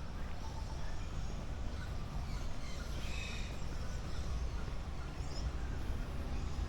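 Birds calling, with a brief cluster of chirping calls about three seconds in, over a steady low rumble.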